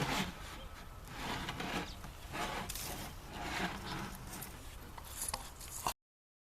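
Rough scraping strokes on wood by hand, about one a second, stopping suddenly where the sound cuts out about six seconds in.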